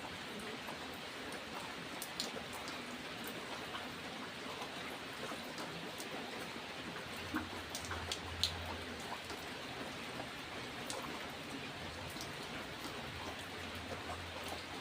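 Steady rain falling, an even hiss with individual raindrops ticking sharply here and there, and a faint low rumble about halfway through.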